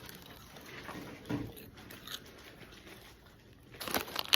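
Someone chewing crunchy snacks, with faint crunching; near the end a louder rustle and a sharp click.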